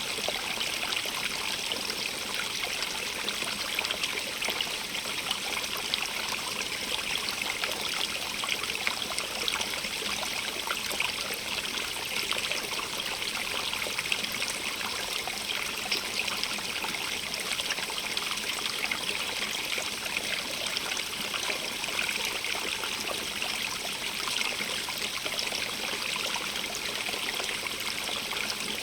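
Running water of a small stream, an unbroken steady rush and trickle with a bright hiss.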